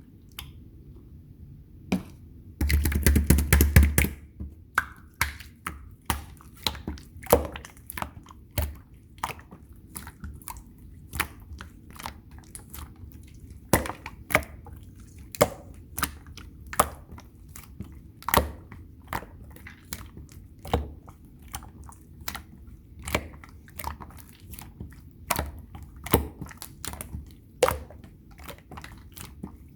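Slime being pressed and squished by hand, giving sharp wet clicks and pops about once or twice a second, after a short dense burst of crackling a few seconds in.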